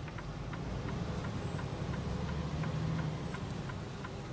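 A truck cab's indicator flasher clicking steadily, about three clicks a second, over the low idle of the rig's diesel engine.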